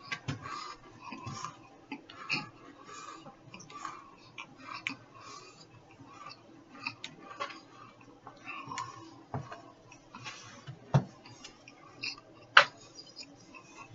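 A person chewing a mouthful of eight dry crackers at once: irregular crunches and mouth clicks, with two sharper, louder clicks near the end.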